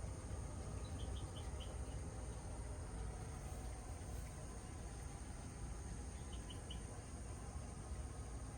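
Night insects, crickets, trilling steadily in a high, even chorus over a low rumble. Twice a short run of about four quick chirps sounds: about a second in, and again around six seconds in.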